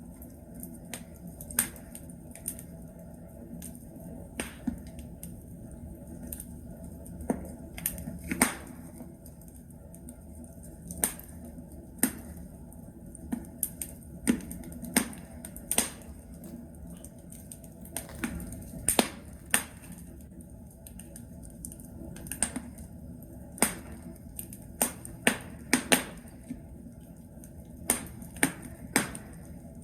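Logs burning in a fireplace, crackling: irregular sharp pops, now single, now two or three in quick succession, over a low steady rumble of the fire.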